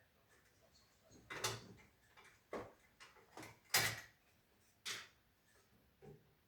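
A string of irregular knocks and clacks, about seven, from parts or tools being handled and set down, the loudest just past the middle.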